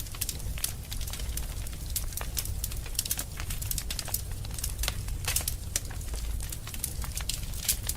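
Wood fire in a fireplace crackling: irregular sharp snaps and pops over a low steady rumble.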